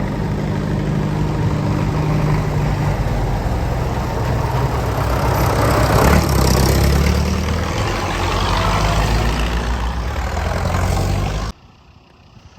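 A vehicle engine running steadily, getting louder for a while about halfway through, then cutting off abruptly near the end.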